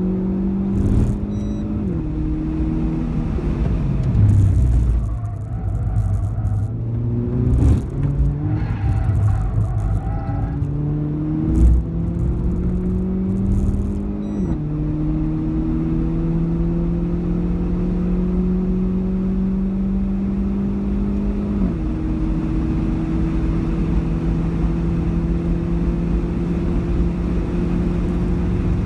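Renault Clio 4 RS's turbocharged 1.6-litre four-cylinder engine heard from inside the cabin, pulling hard on track. Its pitch climbs slowly through each gear and drops at quick upshifts about two, fourteen and twenty-two seconds in. The first half is more uneven, with a few thumps.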